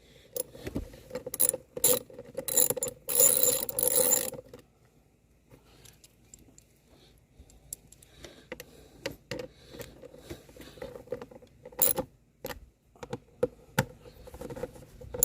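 A new EVAP purge valve and its plastic hose fittings being worked into place by hand. A run of plastic clicks and rattles over the first four seconds or so, then quieter scattered clicks, with one sharp snap about twelve seconds in.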